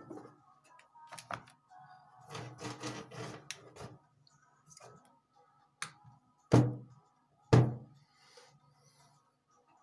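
Handling noises on a jeweller's workbench: a stretch of rubbing, scattered light clicks, and two sharp knocks about a second apart in the second half.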